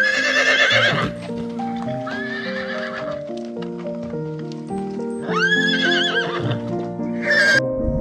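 Horse whinnying four times, the longest and loudest call about five seconds in and a short one near the end, with light hoofbeats between the calls, over background music.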